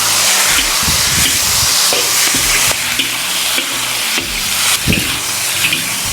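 Food frying and sizzling in hot pork fat and chicken fat in a wok, with a steady hiss and repeated scrapes of a spatula stirring about every half second.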